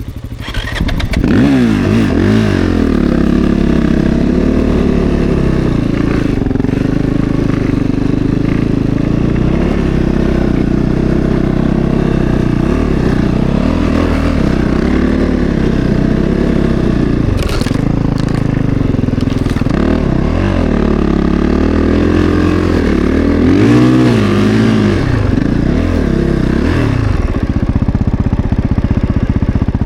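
Snowbike's 450 cc single-cylinder four-stroke dirt-bike engine running under riding load, its note rising and falling again and again as the throttle is worked.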